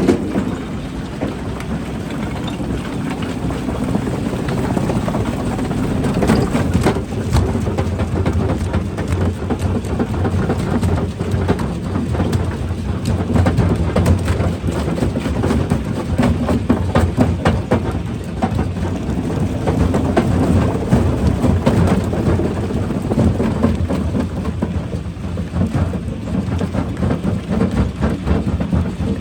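Rock crusher crushing rock: a steady heavy rumble with a dense, continuous clatter of rocks knocking and cracking, busier from about six seconds in.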